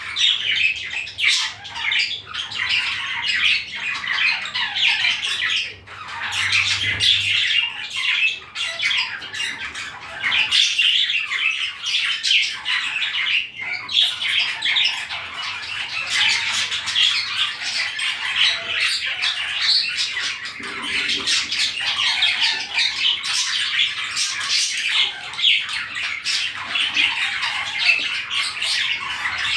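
Several budgerigars chattering without pause: a dense stream of short, rapid calls.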